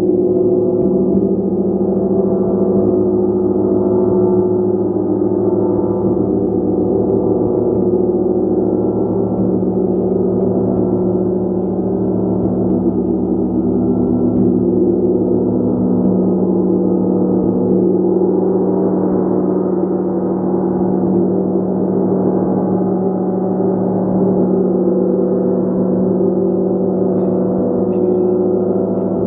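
A large gong being played continuously, its many overtones blending into a loud, steady, shimmering wash that never dies away.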